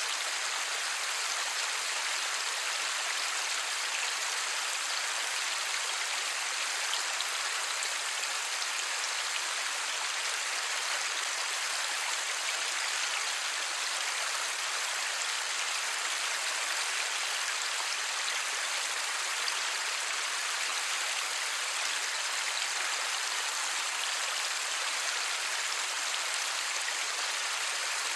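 Steady light rain falling, an even hiss of many small drops with no thunder and no low rumble.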